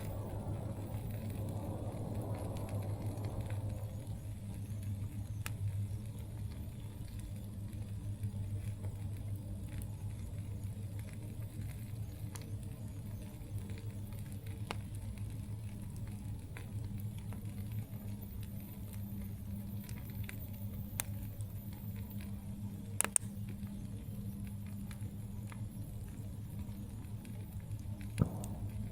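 Campfire crackling: scattered sharp pops and snaps, two louder ones near the end, over a steady low hum.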